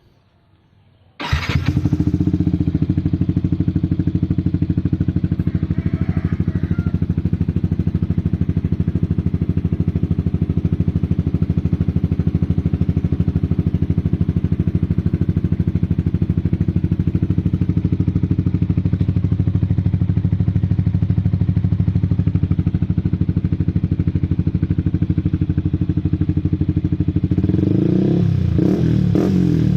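Yamaha R15 V3's 155 cc single-cylinder engine running through an aftermarket R9 exhaust: it starts up suddenly about a second in and idles steadily, then is revved in a few short blips near the end.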